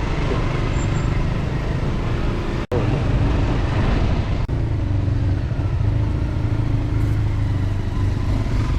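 Dirt bike engine running steadily under way, with a sudden brief cut about two and a half seconds in.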